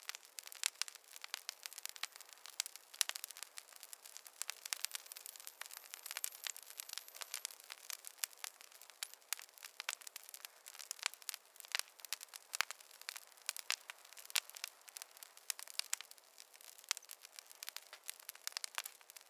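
Campfire crackling: a dense, irregular run of sharp pops and snaps over a soft steady hiss.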